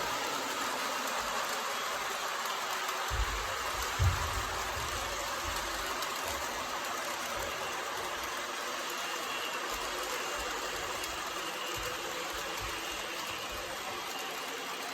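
MTH Propane Turbine model locomotive running on its track at full power: a steady mechanical whir and rattle of motors and wheels. Two low thumps come about three and four seconds in.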